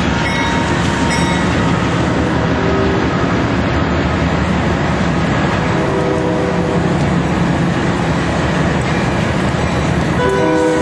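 A train passing close by, a loud steady rumble and rattle of wheels on rails. Its horn begins sounding near the end.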